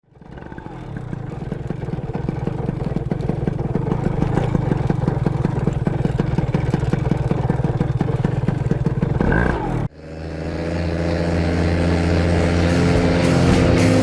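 Paramotor engine running steadily, fading in at the start. About ten seconds in it cuts off abruptly and rock music begins.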